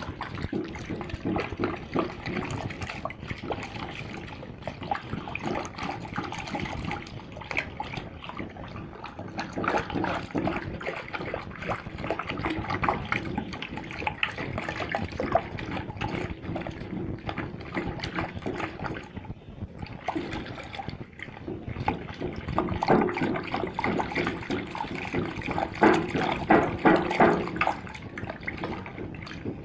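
Water being stirred and sloshed in a container to dissolve Natrosol thickener powder, with continuous churning and splashing that gets a little louder near the end.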